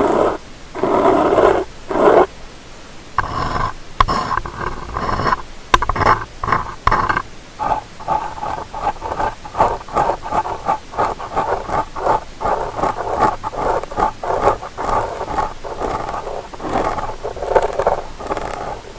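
Close-miked ear-cleaning sounds: an ear pick or cotton swab scraping and rubbing against the microphone, in many quick scratchy strokes.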